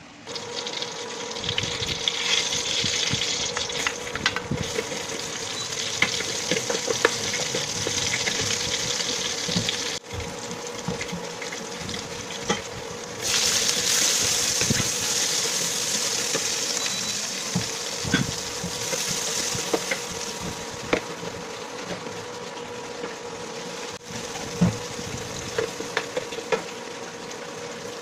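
Chopped garlic and onion sizzling in hot oil in a stainless steel pan, stirred with a wooden spatula that clicks and scrapes against the metal now and then. The sizzle gets louder about halfway through.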